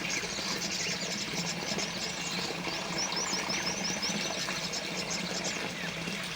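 Steady trickling and splashing of a small water fountain, with small birds chirping high over it, including a quick run of about eight chirps near the middle.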